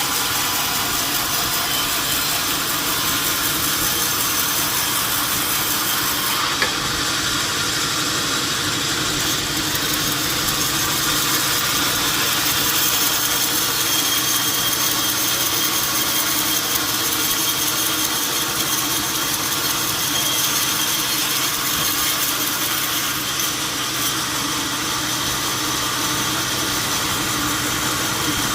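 A machine running steadily: a continuous hum and hiss with several steady tones, and a single click about seven seconds in.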